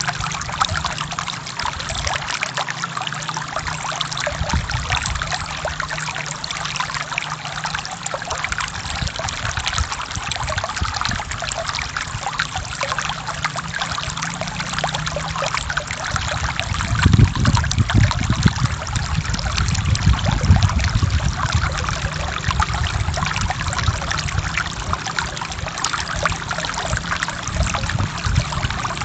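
Stream water running and splashing over rocks in a steady trickling rush. A little past halfway a deeper low rumble swells for several seconds, then eases.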